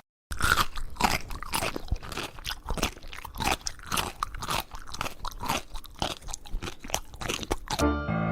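Crunchy chewing: an animal biting and crunching hard food in a quick irregular run of crackly bites, several a second.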